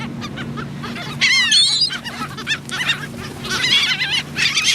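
A flock of gulls squawking as they crowd in for bread, with several overlapping harsh calls. One burst comes about a second in and a longer one near the end.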